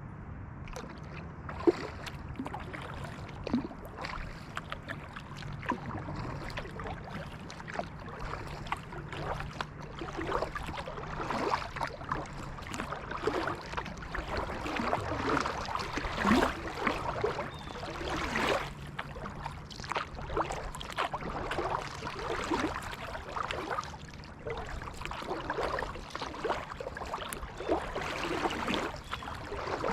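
Kayak paddle blades dipping into and pulling through creek water, stroke after stroke, with splashing and dripping between strokes.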